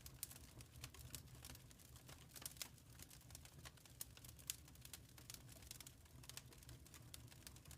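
Wood fire crackling in a fireplace: faint, irregular snaps and pops over a low, steady rumble.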